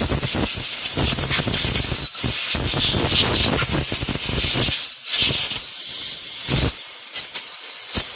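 Compressed-air blowgun blasting excess water off freshly rinsed pistol parts: a loud, continuous air hiss in long blasts with a few short breaks.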